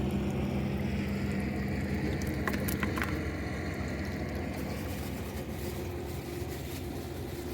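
A steady, low engine drone, with a few sharp clicks about two and a half to three seconds in.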